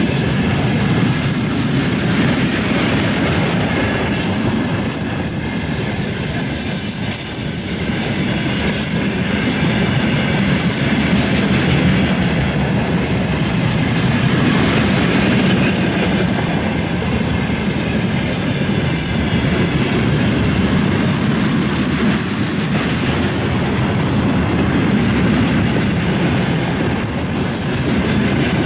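Freight train wagons rolling past close by, a continuous heavy rumble of wheels on rail with clattering and high-pitched wheel squeal over it.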